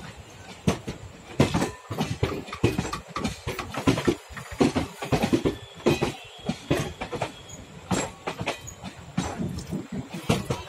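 Passenger coaches (ICF type) rolling past close by, their wheels knocking over rail joints in a rapid, irregular clatter.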